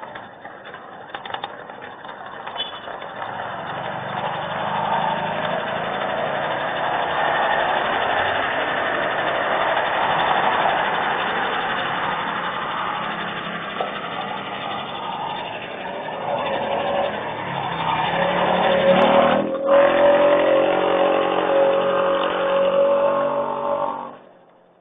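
A motor vehicle's engine growing steadily louder over several seconds, then holding a steady engine note. There is a sharp click about three-quarters of the way through, and the sound cuts off suddenly just before the end.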